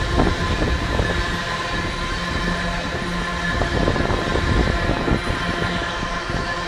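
Iron ore freight train rolling past: a steady rumble of wagon wheels on the rails, with scattered clanks and thin high squeals held throughout.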